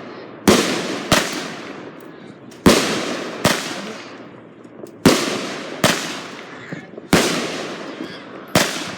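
Consumer fireworks going off: eight sharp bangs in pairs, a loud bang followed by a smaller one under a second later, the pairs coming about every two seconds. Each bang fades away over a second or so.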